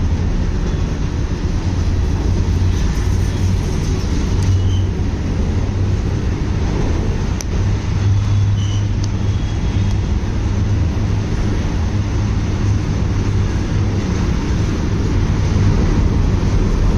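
A moving train's steady, loud low rumble runs on evenly, with a few faint short ticks or squeaks above it.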